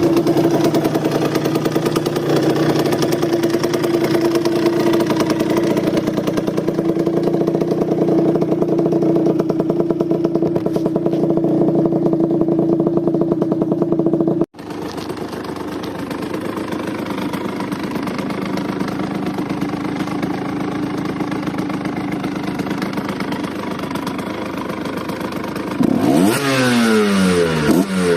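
Two two-stroke motorcycle engines heard one after the other, with an abrupt cut about halfway. The first idles steadily. The second idles, then revs up and down several times near the end.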